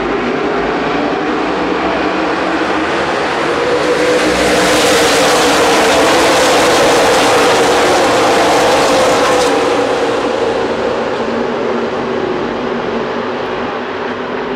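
NASCAR Nationwide Series stock cars racing past at speed. The engine sound swells to a peak about halfway through, then fades with a falling pitch.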